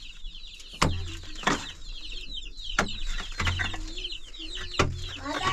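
Chickens cheeping without pause, a quick run of high falling peeps, with a few heavy thuds spaced about a second apart.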